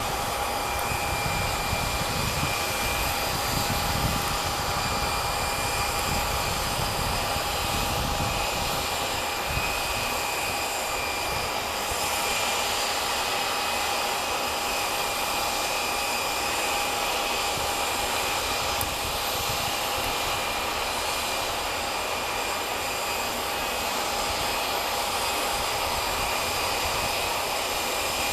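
Boeing 737-700 jet engines (CFM56-7B turbofans) heard from a distance as a steady, unchanging whine over a rushing hiss, with wind gusting on the microphone.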